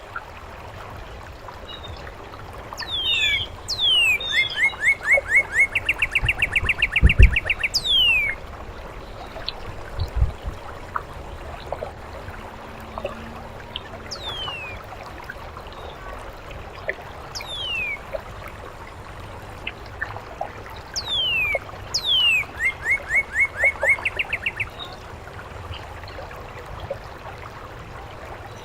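A songbird singing twice. Each song is a few falling whistles followed by a fast run of repeated notes, with single falling whistles in between, over a steady trickle of fountain water. A couple of low thumps come in the first half.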